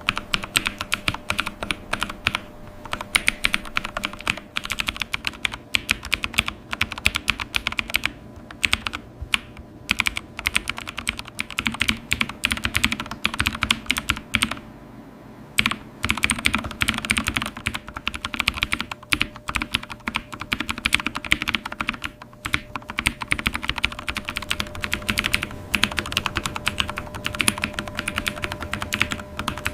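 Typing on a computer keyboard: a quick, continuous run of keystroke clicks, with a brief pause of about a second halfway through.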